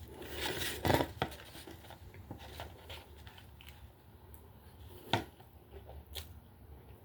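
Rustling and handling noises with scattered clicks, and two sharp knocks, one about a second in and one about five seconds in.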